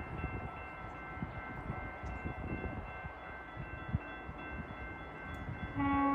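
Railway crossing bells ringing steadily over the low rumble of an approaching GO Transit diesel locomotive. Near the end, the locomotive's air horn starts a long blast.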